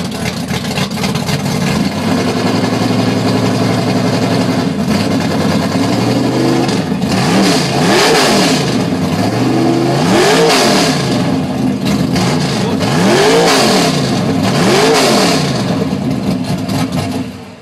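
A 1967 Chevrolet Nova drag car's 600-horsepower engine running loud and steady at idle, then revved four times, each rev rising and falling in pitch, before it cuts off at the end.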